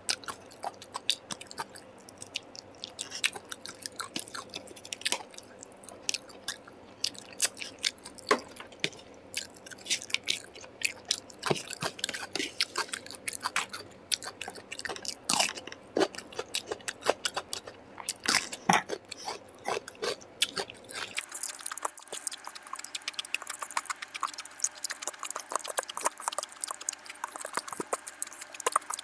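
A person chewing food close to the microphone: a steady run of irregular, sharp mouth clicks and crunches. About three-quarters of the way through, the low background hum drops away while the chewing goes on.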